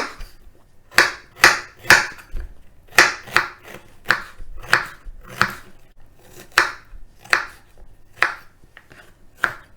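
Knife chopping fresh ginger finely, sharp separate chops about twice a second.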